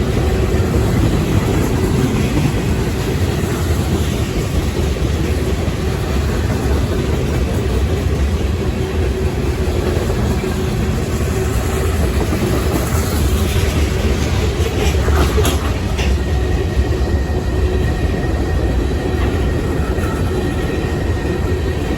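Long CSX local freight train rolling past, its cars making a steady, heavy rumble of wheels on rail, with a few sharp knocks about fifteen seconds in.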